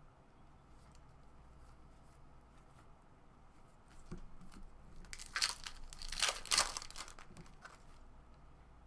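A baseball card pack's wrapper being torn open and crinkled: a few seconds of ripping and rustling starting about halfway through, after a stretch of faint room hum.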